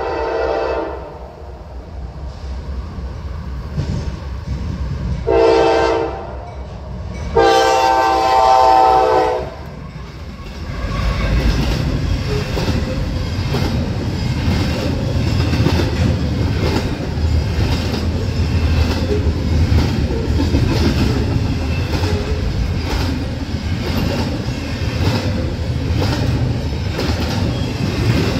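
Freight locomotive horn sounding three blasts: one that ends about a second in, a short one, then a longer one. From about ten seconds in, the GE CW44AC/H and ET44AH diesel locomotives pass with a low rumble, followed by the steady rumble and clickety-clack of a double-stack container train's wheels on the rails.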